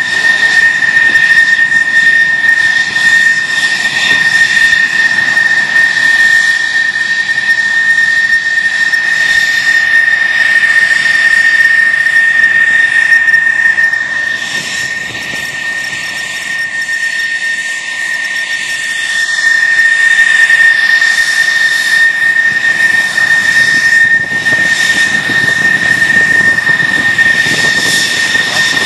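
Military jet engine running with a loud, steady roar and a constant high whine. It drops off somewhat about fifteen seconds in and swells back up about five seconds later.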